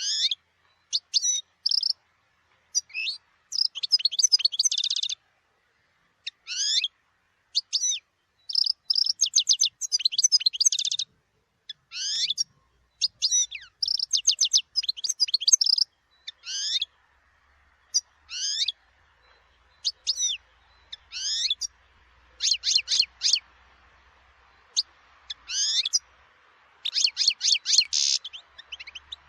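European goldfinch singing: twittering song phrases of rapid trills and quick sweeping whistled notes, broken by short pauses. A faint steady background noise comes in about halfway through.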